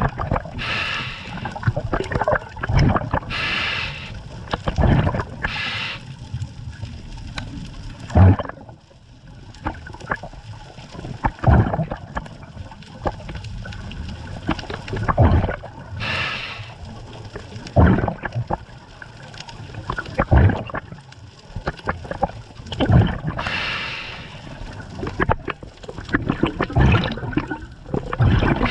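Scuba diver breathing through a regulator underwater: a hiss on each breath in, and exhaled bubbles gurgling up in irregular bursts, with short knocks among them.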